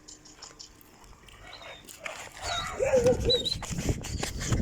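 Dogs whining and yelping in short, wavering calls, starting about halfway through, over scuffling and clicks.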